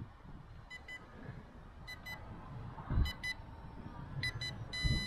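A drone remote controller beeping in short double beeps about every second, with one longer tone near the end: a low-battery warning. Wind gusts rumble on the microphone, strongest about three seconds in.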